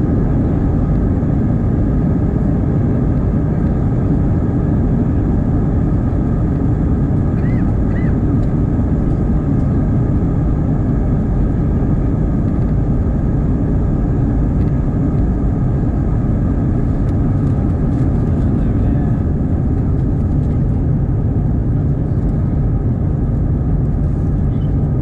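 Steady low rumble of airliner cabin noise inside an Airbus A320: engine and airflow noise holding an even level.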